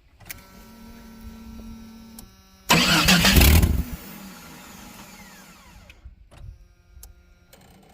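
A Chevrolet truck's starter cranks in one loud burst of about a second, then a whine falls away as it spins down; the engine does not catch. A faint steady hum comes before it.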